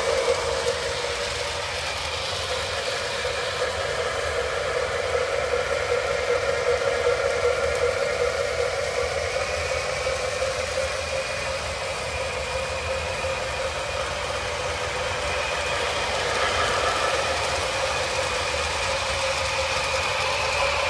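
Model train diesel locomotives running on the track: the steady whir of their electric motors and wheels, wavering slightly in pitch and level.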